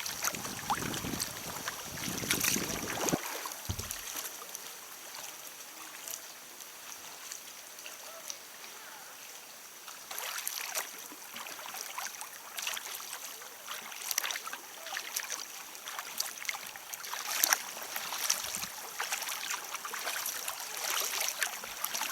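Kayak paddle strokes in water, with repeated short splashes and a steady watery hiss. A low rumble, like wind on the microphone, drops away about three seconds in.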